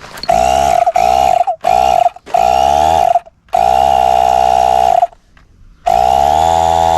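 A small electric motor switched on in short bursts, each one spinning up with a rising whine to a steady high buzz. After five short bursts it runs for a longer stretch near the end.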